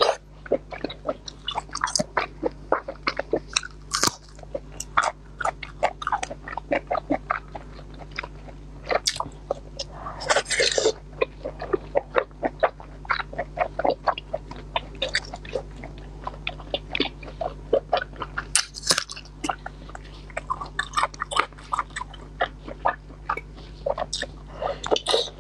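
Close-miked biting and chewing of red roll sausage: a steady run of wet, irregular mouth clicks and smacks. A longer, breathy noise stands out briefly about ten seconds in.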